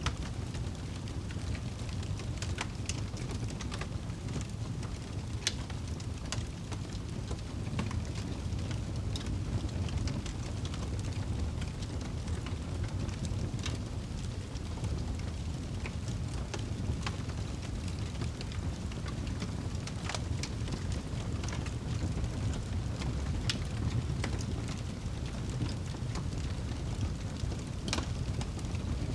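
Wood fire in a fireplace crackling, with scattered irregular pops and snaps over a steady low rumble.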